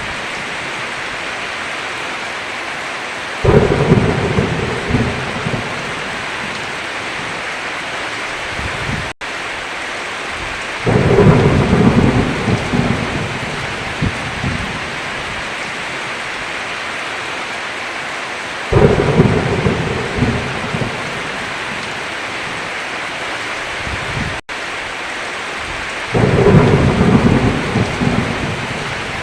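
Heavy rain on a roof hissing steadily, with thunder cracking four times, about every seven to eight seconds, each clap rumbling off over two or three seconds. The sound cuts out for an instant twice.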